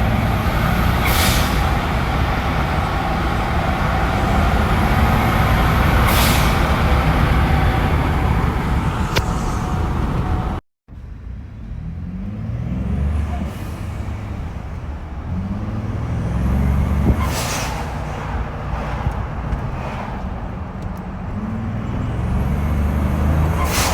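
Ford F-150 3.5 EcoBoost twin-turbo V6 pulling under throttle, the turbos spooling up with a rising whistle, and a Turbosmart blow-off valve venting with a short sharp hiss each time the throttle closes, about six times. The sound drops out briefly a little under halfway through.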